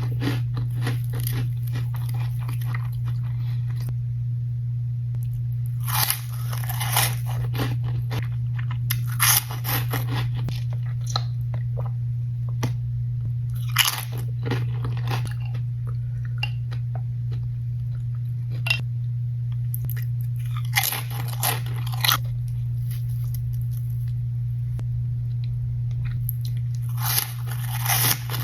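Nacho tortilla chips being bitten and chewed close to the microphone: about five bouts of loud crunching a few seconds apart, with quieter chewing between them. A steady low hum runs underneath.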